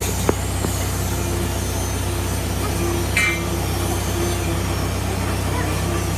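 A motor running steadily with a low, even hum. There is a sharp click shortly after the start and a brief high squeak about three seconds in.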